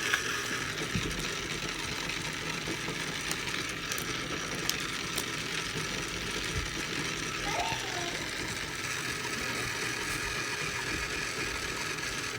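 A small motor runs steadily with a mechanical rattle, and a few light clicks sound now and then.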